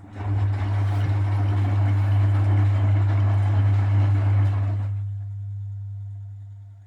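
Frigidaire Super Deluxe Automatic 50 washing machine switching on a mains-powered part with a strong steady electric hum over rushing water during its rinse stage. The water rush stops about five seconds in and the hum fades out soon after.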